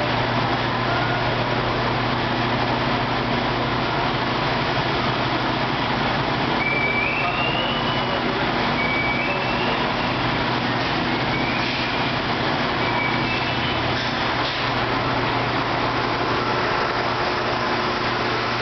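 A water-jug washing machine running: its electric pumps hum steadily while water jets spray inside the cabinet. A few faint, short high chirps come through in the middle.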